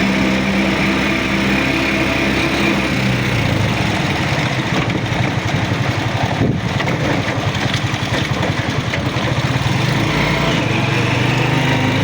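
A small engine running steadily: its even note turns rougher and pulsing from about three seconds in, and smooths out again near the end.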